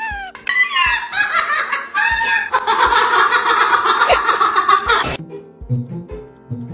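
Cackling, laughter-like voice sounds for about five seconds, high and gliding at first and then a dense run of cackles that stops abruptly, over background music with a steady beat.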